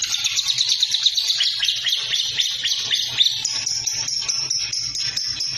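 Lovebird chattering nonstop in a rapid, continuous stream of high chirps. Past the middle it changes to a steadier run of sharp repeated chirps, about three a second.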